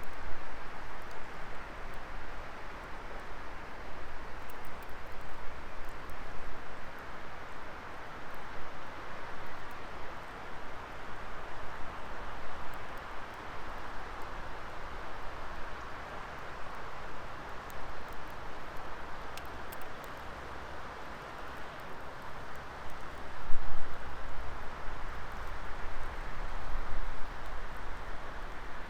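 Wood fire burning in a Coleman Fire Disk fire pit: a steady rushing hiss with scattered small crackles and pops, and one louder pop about two-thirds of the way through.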